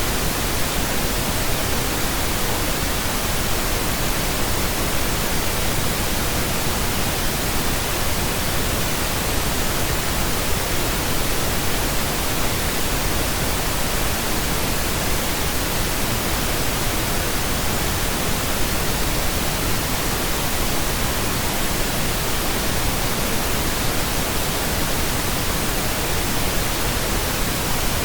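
Steady synthetic pink noise, an even hiss spread across all pitches without change or pause.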